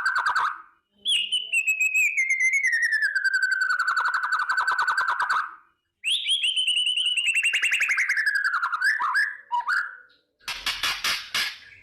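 White-rumped shama (murai batu) giving its kretekan: two long, rapid rattling trills, each a few seconds long, that slide down in pitch, followed near the end by short harsh rasping notes.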